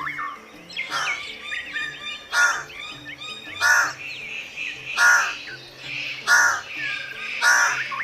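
A bird repeating a loud call six times at an even pace, about one call every 1.3 seconds, with smaller chirps between. Faint background music runs underneath.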